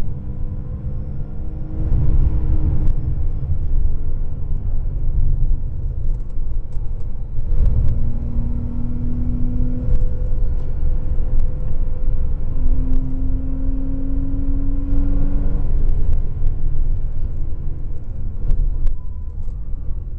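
Porsche 997.2 Carrera 4S's flat-six engine heard from inside the cabin while lapping a track, over a heavy, steady low rumble of road and wind noise. Twice the engine note climbs slowly in pitch as the car pulls.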